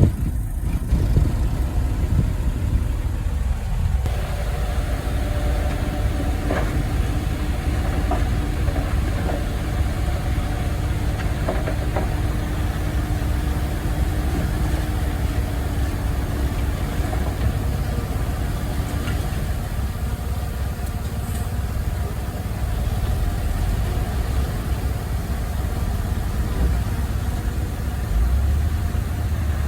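Heavy machinery engine running steadily with a deep rumble. A faint steady whine is there for several seconds from about four seconds in, with a few light knocks.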